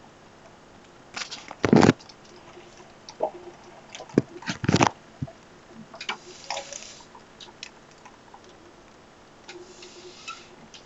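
Thunderstorm rain hissing steadily, with irregular sharp taps and knocks of drops or hail striking something close by, two of them loud.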